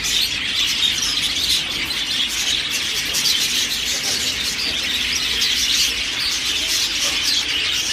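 Many caged small birds chirping and twittering together in a dense, continuous high-pitched chorus.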